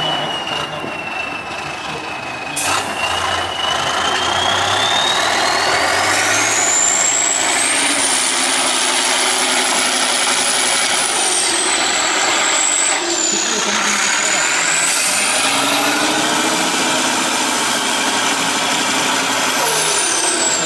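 Tatra 815 6x6 trial truck's diesel engine working hard, getting louder about two and a half seconds in. A high whine runs over it, climbing, dipping briefly and climbing again before falling near the end.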